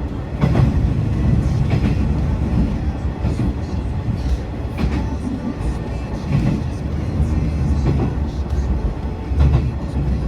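Tarumi Railway diesel railcar running past, a steady rumble with its wheels knocking over rail joints about every second and a half.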